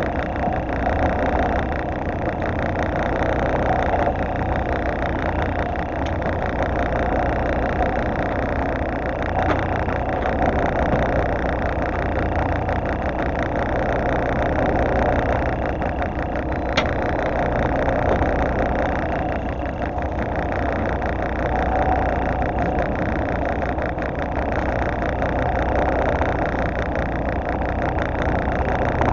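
Fishing boat's engine running steadily, a constant low hum under a wash of engine and water noise, with one short sharp click about two-thirds of the way through.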